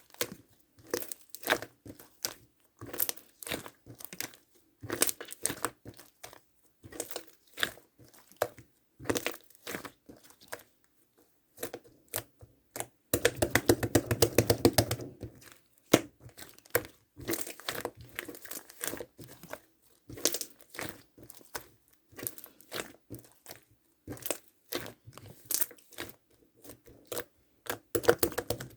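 Pink cloud slime being handled, stretched and pulled apart, giving a run of soft crackles, pops and tearing sounds. About halfway through there is a louder, denser stretch of crackling that lasts a couple of seconds.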